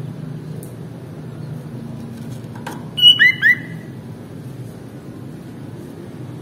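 Sooty-headed bulbul (kutilang) calling: a loud, quick burst of two or three clear whistled notes about three seconds in, over a steady low hum.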